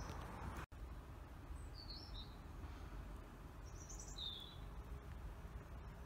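Faint steady outdoor background noise with two brief high bird chirps, one about two seconds in and another about four seconds in.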